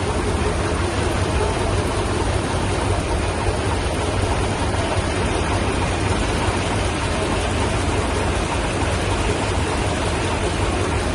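Large stationary engine running steadily, a loud, even mechanical noise with a low throb underneath.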